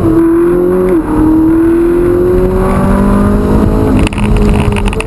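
Ferrari 458 Italia's 4.5-litre V8 under acceleration, heard from inside the cabin. The engine note climbs, drops sharply with an upshift about a second in, climbs steadily again, then dips briefly near the end.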